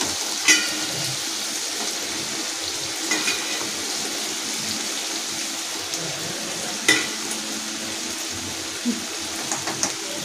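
Bitter gourd pieces frying in oil in a kadhai with a steady sizzle. A few sharp clinks of a metal slotted spoon against the pan come as the vegetable is stirred.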